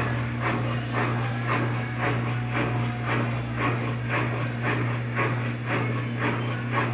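Electrolux LTD13 13 kg washing machine slowing down in its final spin: a steady motor hum with a regular swish about twice a second.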